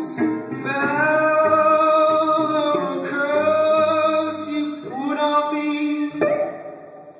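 Live music: a plucked-string accompaniment with a long, sustained melody line held over it, its notes sliding slightly between pitches. The music dies down near the end.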